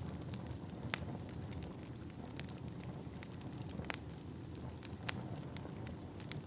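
Wood fire burning in a fireplace: a steady low rumble of flame with irregular sharp crackles and pops, a few louder pops standing out about a second in and around four and five seconds in.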